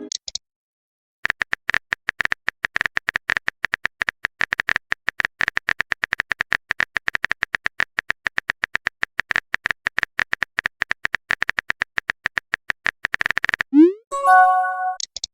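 Rapid keyboard-typing click sound effect for about twelve seconds. Near the end the clicks stop and a short rising swoop and a brief chime follow, a message-sent or notification sound.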